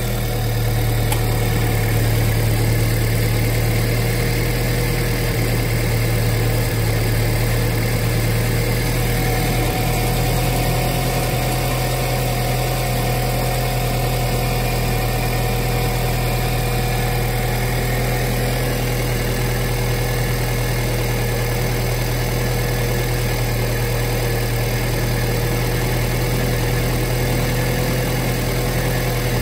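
Alfa Romeo Giulietta's engine idling steadily while air is bled from the cooling system.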